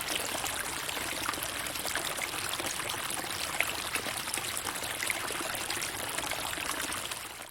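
Running water trickling and splashing steadily, with many small droplet sounds, fading out at the very end.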